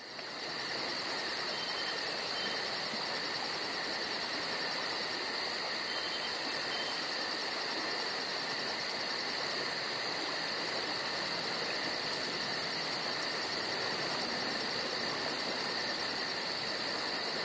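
Crickets and other insects chirping in a steady chorus: a continuous high trill with a fast, even pulse. It fades in at the start.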